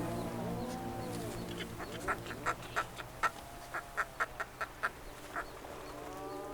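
A bird giving about a dozen short, harsh calls in quick succession, over soft sustained music tones.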